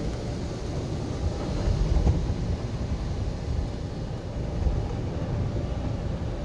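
Steady low rumble of an automatic car wash heard from inside the car, with irregular low thumps.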